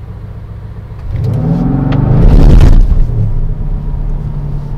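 Mercedes-AMG C63 S's 4.0-litre V8, heard from inside the cabin with the car in Race mode. It pulls away from a low steady note, revving up with rising pitch and loudness for about a second and a half, then drops back abruptly just before three seconds in and settles into a steady lower drone.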